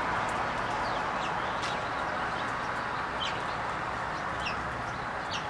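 Small birds chirping: scattered short, high chirps over a steady background hum.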